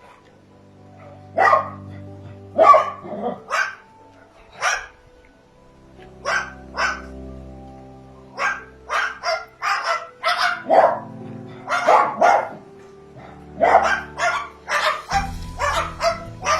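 Repeated short, sharp barking calls at irregular intervals, about twenty of them, over background music with sustained tones.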